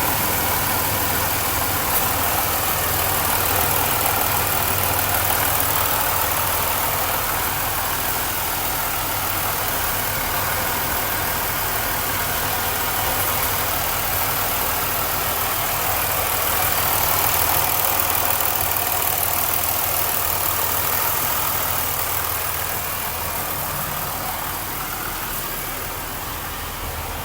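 Supercharged 3800 V6 in a Pontiac Grand Prix idling steadily while warming up, growing slightly quieter near the end.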